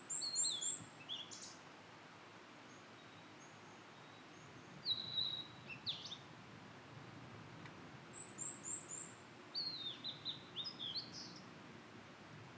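Blue-and-white flycatcher singing: three high, clear song phrases of sliding whistled notes, a few seconds apart, the last the longest, with faint short notes between them.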